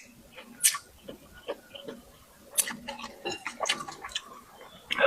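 A person chewing food close to the microphone, with a string of sharp mouth smacks and clicks at irregular intervals, about one every second.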